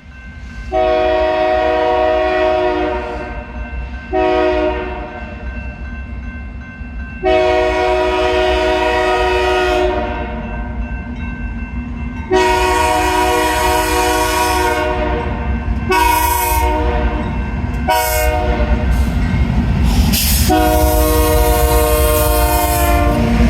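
Multi-chime air horn of a GE freight diesel locomotive sounding a series of blasts, mostly long with two short ones near the end, over the steady low rumble of the train rolling past.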